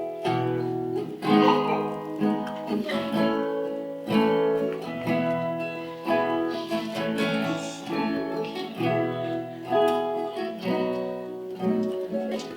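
Acoustic guitar playing chords at a slow, steady pace, the instrumental lead-in to a sung worship song.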